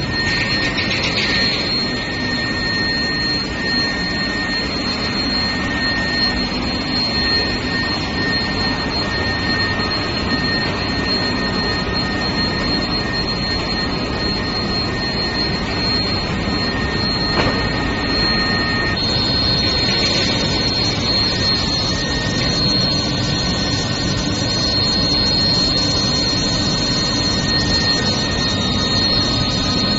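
Steel bar induction heat treatment furnace line running: a steady industrial roar with two high, steady whines over it. About two-thirds of the way through, the whines change pitch and further tones join in.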